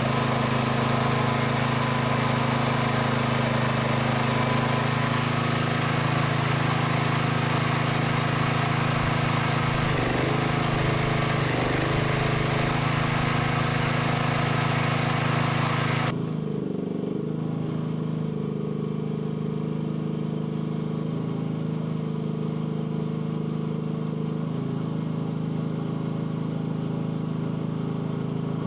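AGT L12 mini excavator's small engine running steadily under work, its pitch dipping briefly a few times. About sixteen seconds in, a hiss over the engine cuts off suddenly, and the engine goes on a little quieter.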